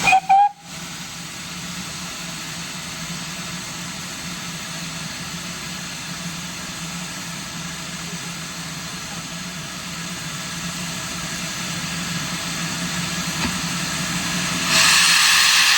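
A standing heritage train's engine hum running steadily, with a loud hiss of released steam or air starting about a second before the end.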